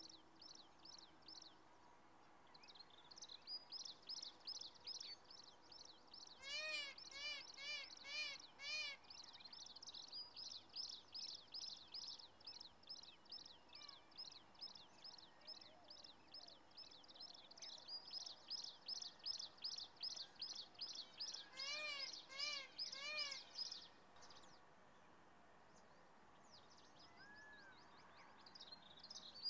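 Birds chirping faintly in a quick, near-continuous run of high notes, which drops away for a few seconds near the end. Twice a louder series of about four ringing calls comes in, once about seven seconds in and again about twenty-two seconds in.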